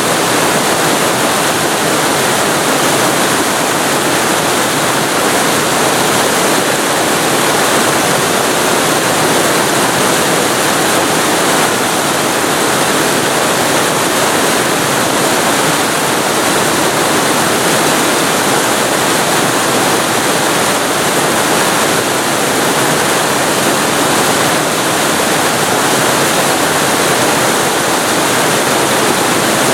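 Waterfall recorded very close to the falling water: a loud, steady rush of water that holds even throughout.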